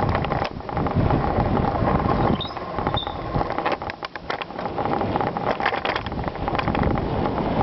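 Bicycle being ridden over rough ground: wind buffeting the microphone, with a steady stream of rattles and clicks from the bike and tyres.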